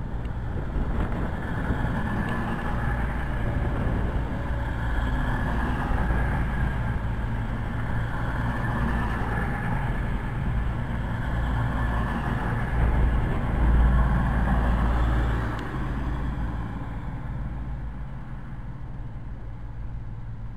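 CrossCountry Voyager diesel multiple unit passing close by: a steady rumble of underfloor diesel engines and wheels on rail, loudest about two-thirds of the way through, then dying away.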